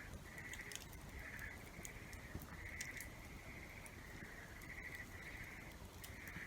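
A repeating animal call at one pitch, short rough pulses about twice a second, over scattered sharp crackles and pops of a wood campfire.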